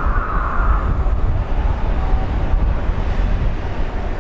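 Railway noise at a station platform: a steady low rumble as the East i-E diesel track-inspection train approaches slowly, with a higher hum that fades out about a second in.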